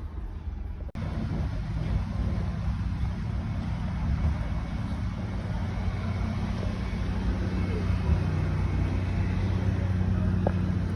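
Vehicle driving: steady engine and road noise with a low hum, cutting in abruptly about a second in.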